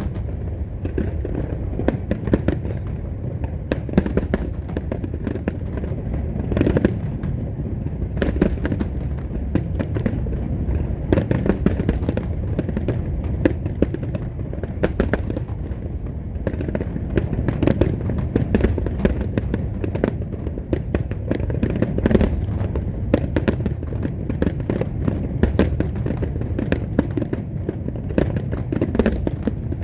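Large aerial fireworks display: a dense, irregular stream of sharp bangs and shell bursts, overlapping one another over a continuous low rumble.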